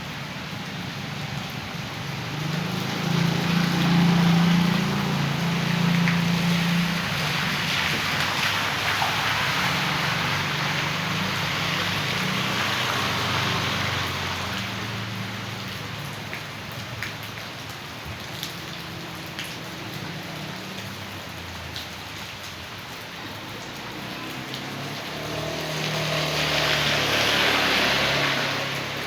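Rain falling with a steady rush of rainwater runoff. A low rumble swells about three seconds in and again near the end.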